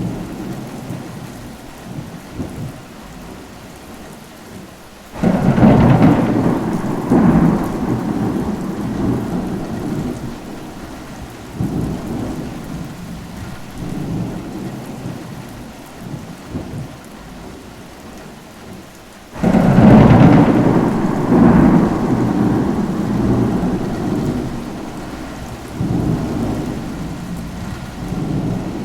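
Steady rain with thunder: two loud claps break suddenly, about five seconds in and again just before twenty seconds, each rumbling away over several seconds, with fainter rolls of thunder between.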